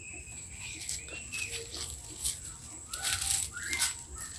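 Steady high-pitched insect buzz, with a few short dry rustling or rattling bursts about two to four seconds in.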